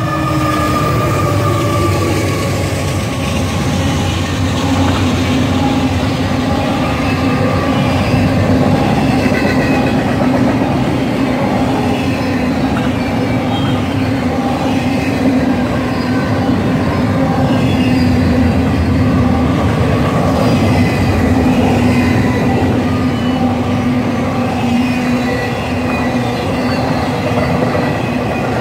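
A freight train passing close by: Union Pacific diesel locomotives go past first, then double-stack intermodal container cars roll by. It is a steady, loud rumble of engines and steel wheels on the rails.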